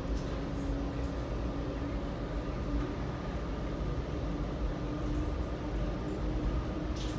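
Metra commuter train running, heard on board: a steady low rumble of the wheels on the rails with a hum that rises slightly in pitch, and a couple of light clicks near the end.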